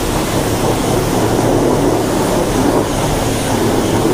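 Self-serve car wash high-pressure wand spraying a motorcycle: a loud, steady hiss of spray over a steady low hum.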